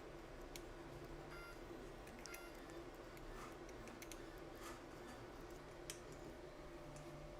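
Faint, scattered small clicks and ticks from parts being handled, about seven spread irregularly, over a low steady hum.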